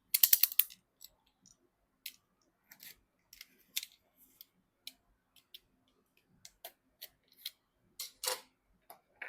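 Sharp clicks and light taps of computer parts being handled and fitted: a quick rattle of clicks in the first second, then separate clicks every second or so.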